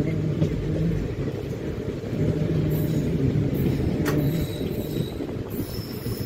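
Indian Railways passenger train running along the track, heard from inside the coach as a steady rumble of wheels on rail. There is a single sharp click about four seconds in.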